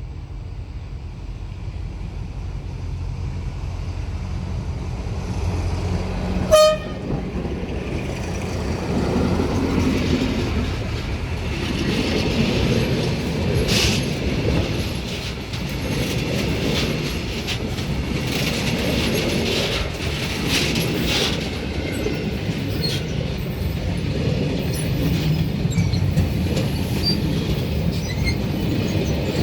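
TCDD DE 24000-class diesel-electric locomotive hauling a freight train, growing louder as it approaches. It gives one short horn toot about six seconds in. The freight wagons then rumble and clatter past on the rails.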